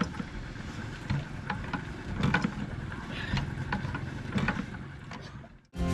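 Big old stationary diesel engine turning over slowly: a low rumble with a sharp knock about every half second. It cuts off suddenly near the end.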